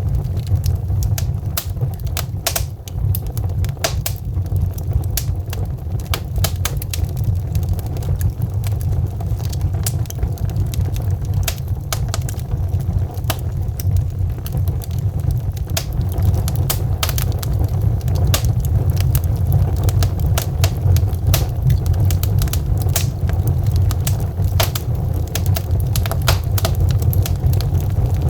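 Wood fire burning in a fireplace: logs crackling and popping irregularly over a steady low rumble of the flames.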